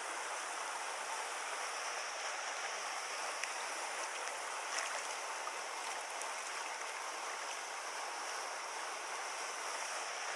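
Mountain stream water rushing steadily over rocks, an even, continuous wash.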